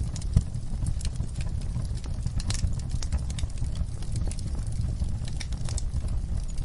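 Wood fire in a fireplace crackling: irregular sharp pops and snaps over a steady low rumble of the burning, with one louder pop about half a second in.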